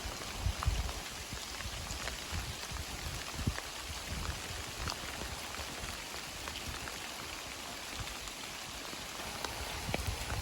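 Light, steady rain falling, with scattered drops ticking on nearby surfaces.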